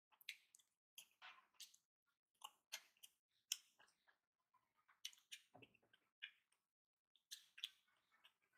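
Close-miked mouth sounds of a person chewing a mouthful of rice and fish: a run of short, wet smacks and clicks in clusters, with brief pauses between them. Fingers squishing rice on the plate join in partway through.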